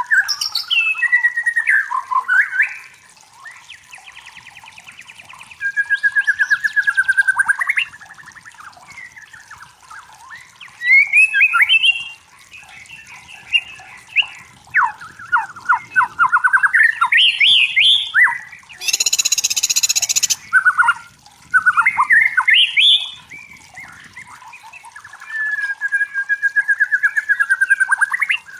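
White-rumped shama singing a varied song of whistled phrases, rapid trills and rattling notes in bursts a second or two long with short pauses, and one harsh hissing call about two-thirds of the way in.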